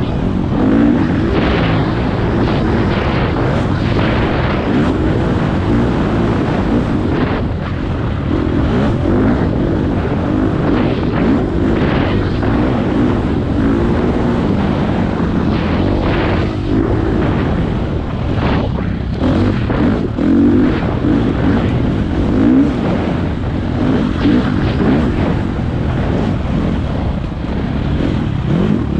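Four-stroke dirt bike engine under throttle, its pitch rising and falling again and again as the rider revs and shifts, with wind rushing over the microphone.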